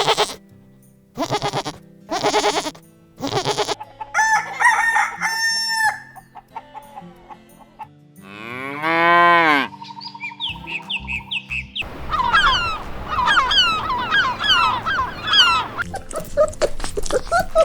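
A string of chicken calls: short harsh clucks, then pitched calls, then one long arched rooster crow about halfway through. Near the end comes a busy run of quick, high, falling chirps.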